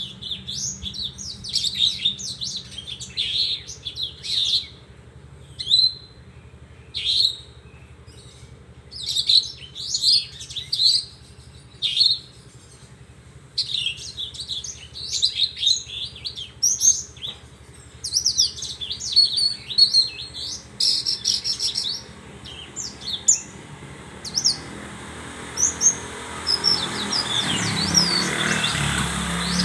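Branjangan (Horsfield's bushlark) singing: quick runs of high chirps and trills in short phrases, with brief pauses between them. Near the end a rushing noise swells up beneath the song.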